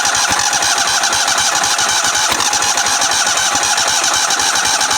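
Small engine on a lawn mower or garden tractor being cranked by its electric starter in a steady, rapid rhythm, not yet catching.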